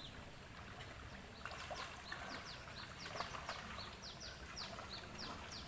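A bird chirping: a steady series of short, falling high-pitched calls, about two a second, starting a second or so in, over faint outdoor background noise.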